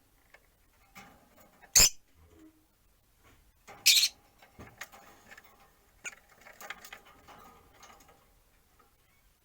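Caged rosy-faced lovebirds making short, sharp chirps, with two loud ones just under two seconds in and about four seconds in, and soft scattered ticks and scratches between them.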